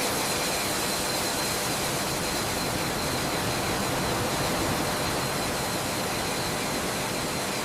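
Steady jet engine noise: an even rushing hiss with a faint, thin high whine running through it.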